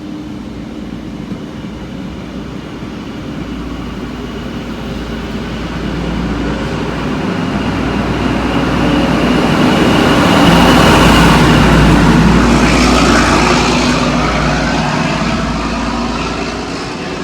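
A train passing by: its running noise grows louder to a peak about two thirds of the way through, then fades away.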